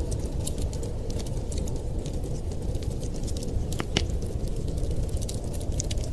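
Wood fire crackling, with frequent small sharp pops over a steady low rumble and one louder pop about four seconds in.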